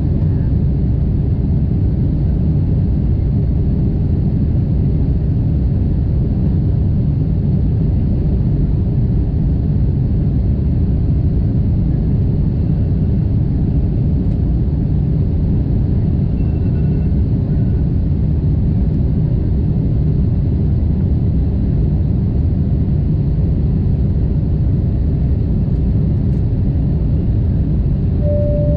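Steady, loud cabin rumble of a Boeing 747-8 in flight or on the ground, with engine and airflow noise. A short clear tone sounds near the end.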